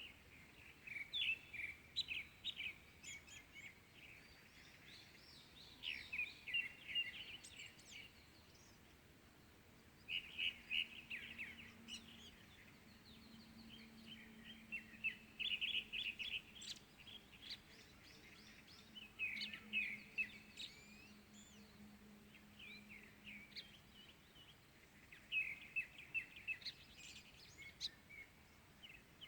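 Wild birds singing at dawn: short bursts of rapid, high chirping notes, each a couple of seconds long, repeating every few seconds over faint outdoor background noise.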